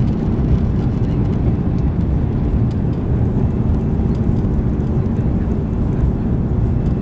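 Cabin noise inside a four-engined Airbus A340-300 airliner: a steady, loud, low rumble of the engines and airframe, with faint steady engine tones through it.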